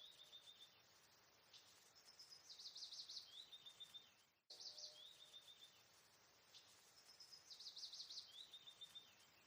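Faint birdsong: the same short phrase, a quick high trill followed by a falling run of notes, repeats about every three seconds over faint hiss.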